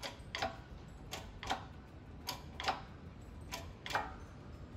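Shop press working a new brake shaft seal down into its housing: sharp clicks in pairs, four pairs a little over a second apart.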